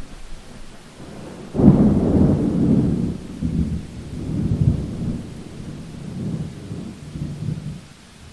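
Thunder during a rainstorm: a sudden crack about a second and a half in, then rolling rumbles that fade over the next several seconds, over steady rain.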